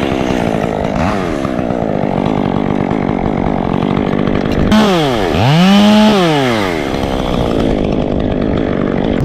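Two-stroke chainsaw running at high revs, its pitch wandering as the throttle and load change. About five seconds in the pitch dips sharply, then climbs back and falls again, and the saw is loudest there.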